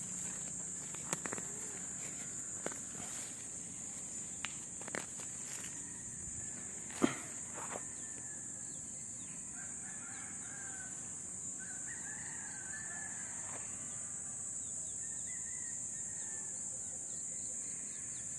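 A steady high-pitched drone of insects such as crickets, with several sharp knocks in the first half, the loudest about seven seconds in, and wavering bird calls in the second half.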